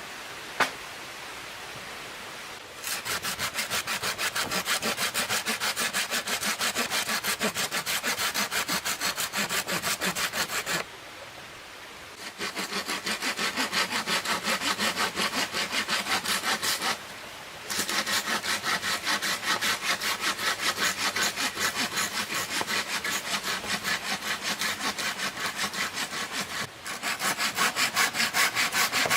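Hand saw cutting through wood with fast, even back-and-forth strokes, in several long runs separated by short pauses. Before the sawing starts, about three seconds in, there is a steady soft hiss and a single sharp click.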